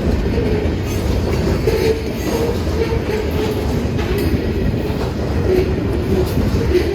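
Train rolling past: a steady heavy rumble of the cars, with a few clacks over the rail joints and a faint wavering whine.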